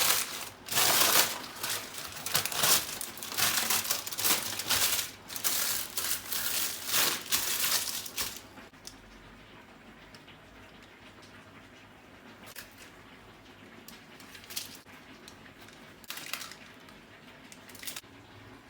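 Crinkling and rustling, as of a wrapper or bag being handled, in repeated bursts for about eight seconds, then a few soft clicks and knocks.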